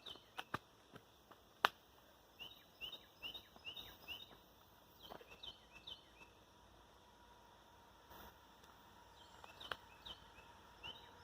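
Faint birdsong: a bird repeating phrases of four or five short, high, downslurred notes, several phrases in a row, with a few sharp clicks in the first two seconds.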